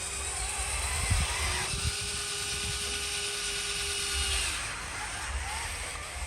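Small electric motor of a radio-controlled construction model whining steadily, cutting off about four and a half seconds in, over a second, wavering motor whine.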